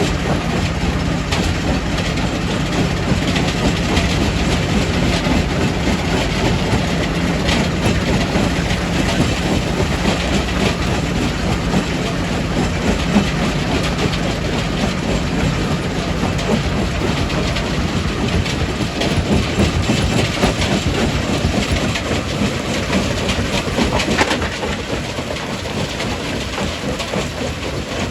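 Quarry primary rock crusher running and crushing stone: a steady loud machine noise with a low hum under a continuous clatter of rock. About 24 seconds in it becomes somewhat quieter.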